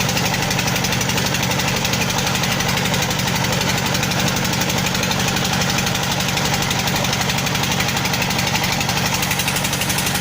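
An engine running steadily at an even speed, with a rapid, regular knocking beat.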